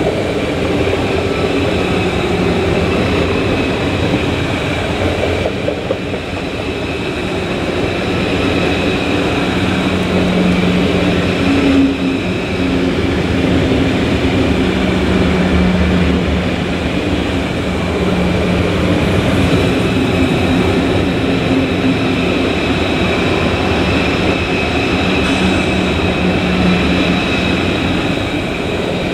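A train running slowly through a station, a long steady rolling rumble with humming tones that swell and fade as the train passes.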